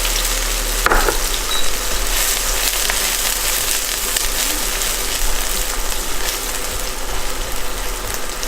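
Hot oil sizzling in a wok over high heat, with scattered small pops and a short louder surge about a second in.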